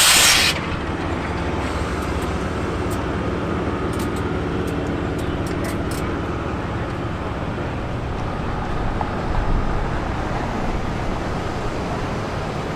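A loud hiss cuts off about half a second in, followed by a vehicle running nearby: a steady low rumble with a faint hum that fades out about seven seconds in.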